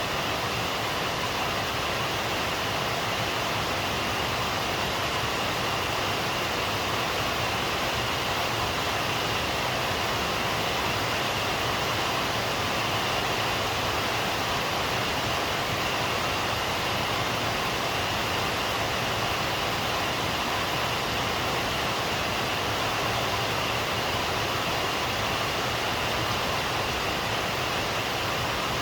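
Steady rain falling: an even, unbroken hiss with no thunder or separate drips standing out.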